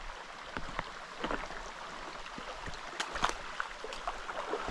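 Rain starting to fall, with scattered drops landing close by as irregular sharp ticks, a few louder ones about three seconds in, over a steady hiss of rain and creek water.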